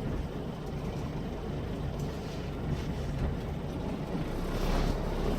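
Scania K340 coach's engine running, heard from inside the coach: a steady low drone under a rushing hiss, growing a little louder near the end.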